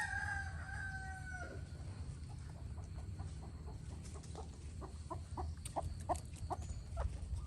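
Free-range chickens: a rooster's crow ends on a long held note about a second and a half in, followed by a run of short clucks.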